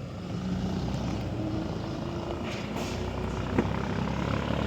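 An engine running steadily with a low drone that builds over the first second, with a few sharp knocks over it.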